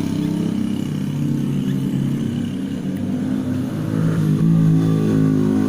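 Motor vehicle engine running, its pitch shifting and rising a little from about four seconds in.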